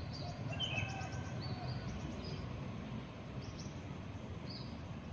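Small birds chirping in short high calls, a cluster in the first two and a half seconds and a few more later, over a steady low background rumble.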